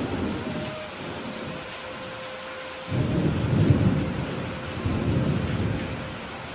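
Steady rain with thunder: a sudden low crack right at the start that fades out, then a louder rolling rumble about three seconds in that swells again near five seconds before dying away.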